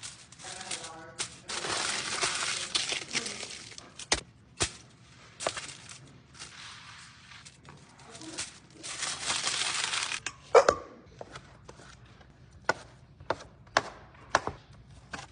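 Rustling of packaging, with long crinkly bursts, mixed with short knocks and clicks of groceries being handled and set down, and one louder thud a little past the middle.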